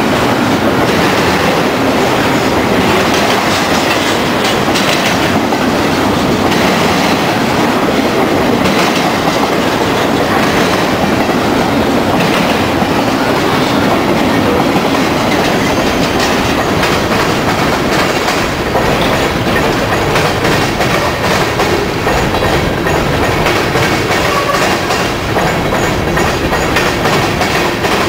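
Freight train passing close by: double-stack container cars and loaded coal hoppers rolling steadily, their wheels clattering over the rail joints.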